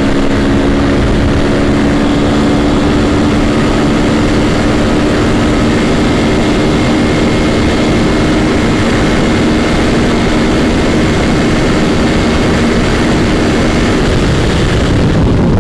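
Motorcycle engine running at a steady cruise, its note holding even and easing slightly lower before fading out near the end, with wind rushing over the microphone.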